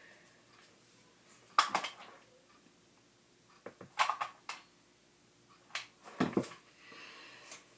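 Handling noises of craft work on a tabletop: a few separate sharp knocks and clatters, the loudest about a second and a half in and a cluster around six seconds, then a soft rustle near the end.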